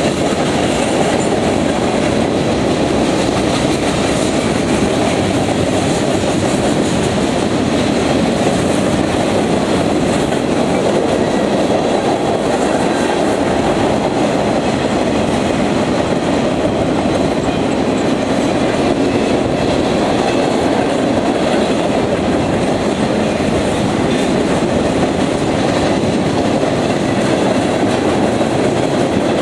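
Cars of a CSX freight train rolling past, with a steady rumble and the clickety-clack of steel wheels over the rail joints.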